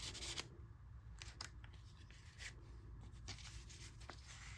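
Paper and card being handled: a brief rustle at the start, then a few soft scattered clicks and taps as journal pages and cards are moved.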